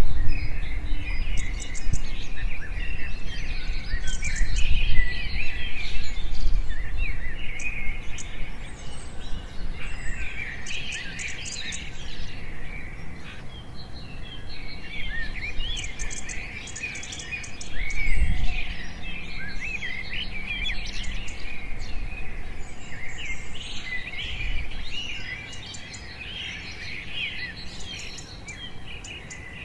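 Several birds chirping and singing at once, a dense overlap of short calls and quick whistled glides. A low rumble lies underneath, strongest in the first several seconds, with a short low thump past the middle.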